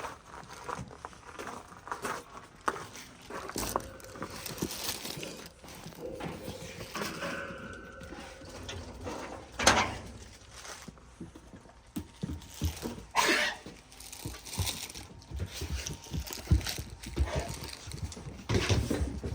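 Dogs moving about with scattered knocks, scuffs and shuffling, including one sharp knock near the middle.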